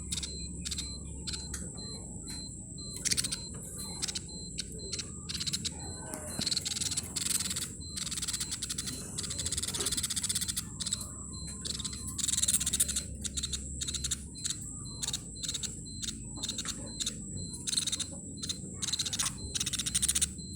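Sogon, a small pet songbird, giving a long run of short, sharp chirps, several a second and irregular. A faint steady high tone sits underneath.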